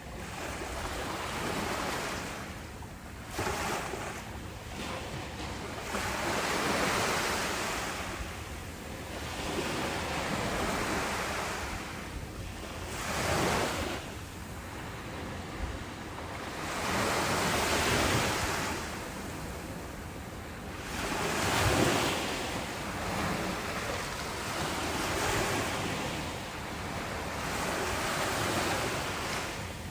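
Ocean waves breaking and washing on a shore, a steady surf noise that swells and falls back every few seconds. Some wind noise on the microphone.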